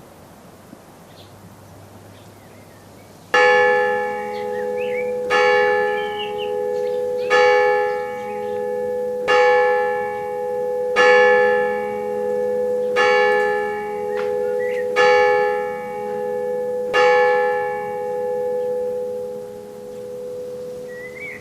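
A church bell striking eight slow strokes about two seconds apart, starting a few seconds in, each stroke ringing on and fading slowly, with birds chirping faintly.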